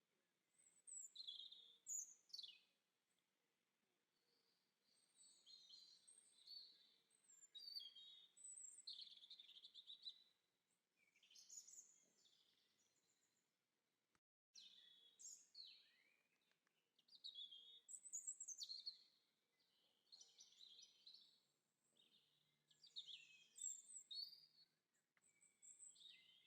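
Faint birdsong: many small birds chirping and twittering in quick high calls and short trills, overlapping one another. The sound cuts out completely for a split second about halfway through.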